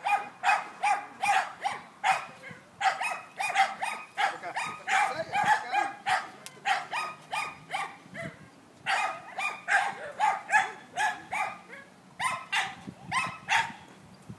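A dog barking over and over, about three barks a second, with two short breaks.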